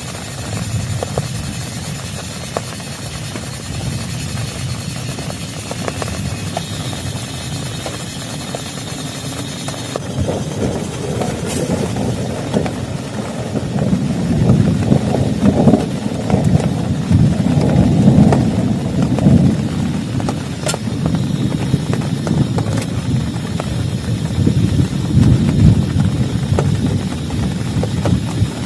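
Heavy rain drumming on a plastic tarp, a dense patter of drops with a deep rumble that swells up about halfway through and eases off near the end.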